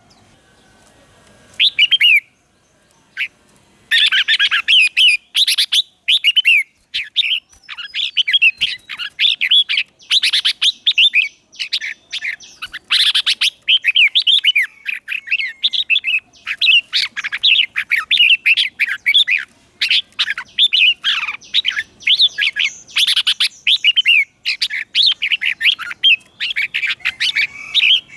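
Red-whiskered bulbul singing: a short phrase about two seconds in, then from about four seconds a long, busy run of quick, bright warbled phrases. It is the singing of a decoy bird, meant to call wild bulbuls in.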